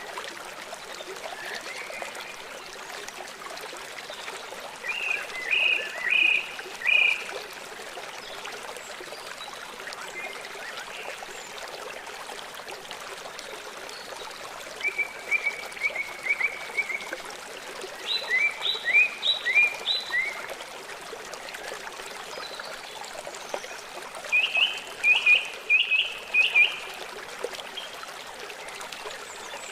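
Small songbirds singing in bouts of quick repeated chirping notes, several times, over a steady rush of running water.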